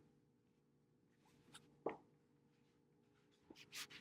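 Near silence: room tone with a faint steady hum and a couple of faint knocks, one about halfway through and one near the end.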